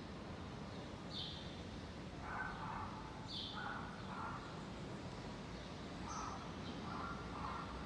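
Birds calling: a few short, harsh calls, two pairs of them, with brief higher notes in between, over a steady low background rumble.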